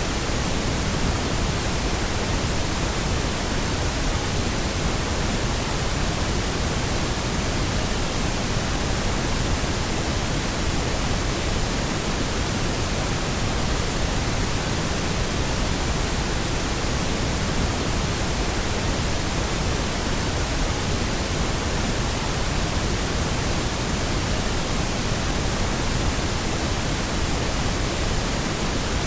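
Steady pink noise: an even, unchanging hiss spread across all pitches, weighted toward the lows, with no tones or events.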